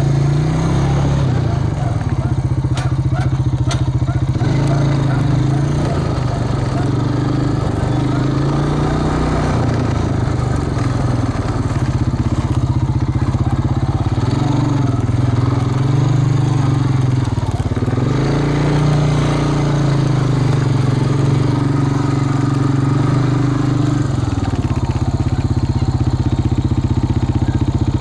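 A vehicle's engine running while being driven, its pitch rising and falling every few seconds as the speed changes.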